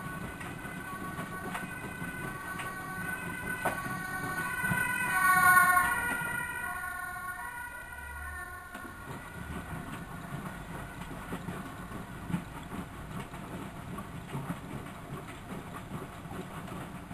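Miele W763 washing machine's drum motor running with a whine that swells to its loudest about five seconds in, then settles back to a lower, steady running sound.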